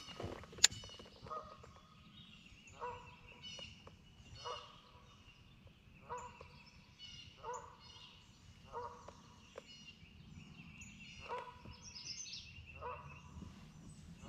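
A large bird calling over and over, a short call about every one and a half seconds, with small birds chirping faintly. One sharp click about half a second in.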